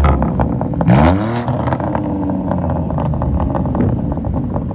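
BMW X3 M's twin-turbo inline-six through a full Eisenmann stainless cat-back exhaust with high-flow cats, blipped once about a second in. The pitch climbs, then eases back down to a steady idle rumble, with a few crackles as it drops off.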